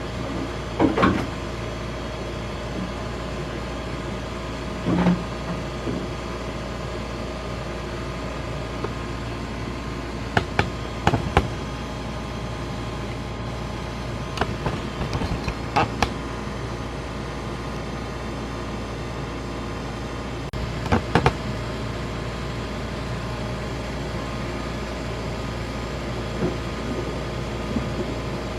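Steady mechanical hum of a commercial ice machine running, with a scattering of sharp knocks and clanks as its metal cover panel and screws are handled, loudest in clusters about a third and two thirds of the way through.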